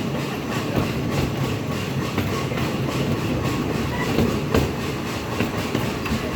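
Train cars rolling along the track under way: a steady rumble with irregular clicks and clacks of the wheels over rail joints.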